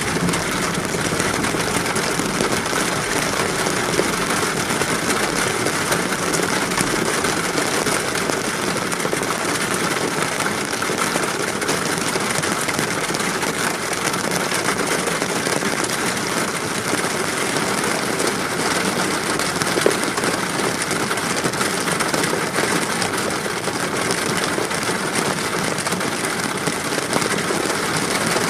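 Steady rain, an even hiss with a couple of faint ticks.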